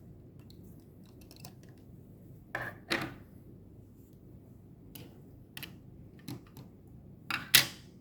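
Clicks and knocks of small hard parts being handled while the battery inside a pump's display unit is replaced. There is a loud pair about two and a half seconds in, a few lighter clicks in the middle, and the loudest pair near the end.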